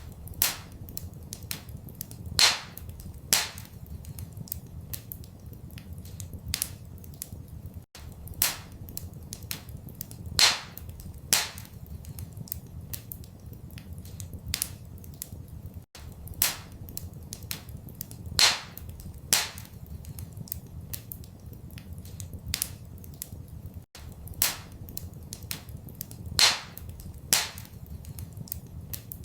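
Wood fire crackling in a fireplace: irregular sharp pops and snaps, a few loud ones, over a steady low rumble. The same crackle pattern repeats about every eight seconds with a brief dropout between repeats, a looped recording.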